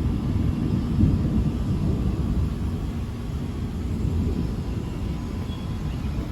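Thunder rolling and rumbling low and continuously, swelling about a second in and then easing off slightly.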